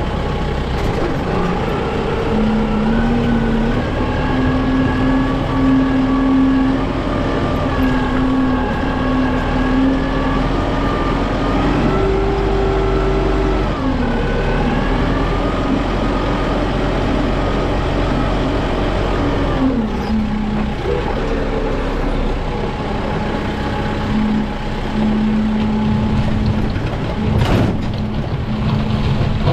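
Kubota M6060 tractor's diesel engine running steadily while working a tractor-mounted backhoe. Its pitch steps up and down several times as the load changes, with a sharp knock near the end.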